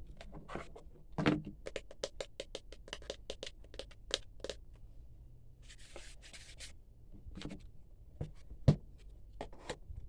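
Hands handling an unboxed phone stand and headset packaging: a quick run of small plastic clicks and taps, a brief rustle about six seconds in, and one sharp knock near the end, the loudest sound.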